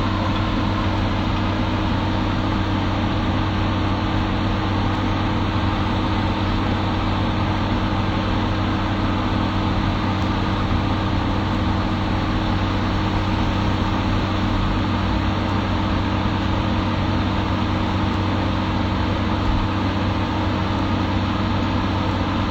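Excavator's diesel engine running steadily at constant speed, a low even hum with no revving.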